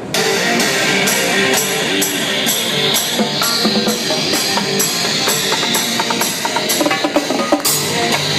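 Drum kit and percussion played over dance music, with a steady beat of sharp cymbal-like hits about twice a second and pitched notes underneath; the drum-led music starts abruptly.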